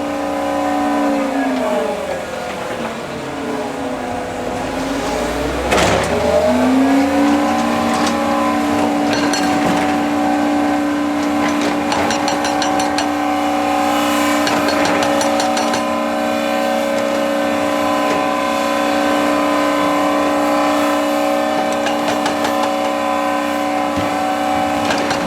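Diesel engine of heavy construction machinery running at a steady high speed, its pitch sagging for a few seconds as it takes a load and then climbing back, with a sharp knock about six seconds in and scattered clanks after.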